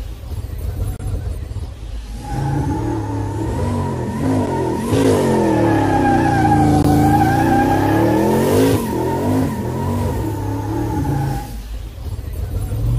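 Car engine revving hard, with a steady high tone over it; the engine is loudest from about five to nine seconds in.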